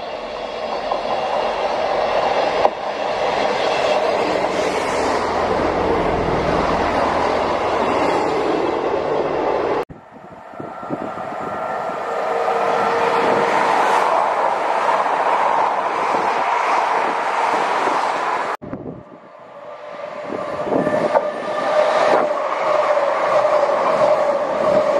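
Diesel multiple-unit trains running through a station, in three clips joined by abrupt cuts: a Northern diesel unit approaching, then an East Midlands Trains Meridian approaching, then a CrossCountry Voyager passing close by at speed. Each part grows louder as its train nears.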